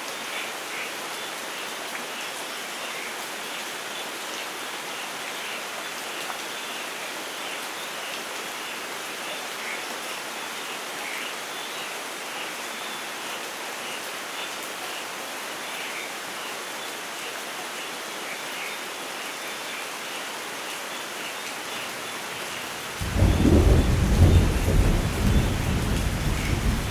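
Steady rain falling, a constant hiss with fine pattering drops. About 23 seconds in, a loud, deep thunder rumble breaks in suddenly and keeps rolling.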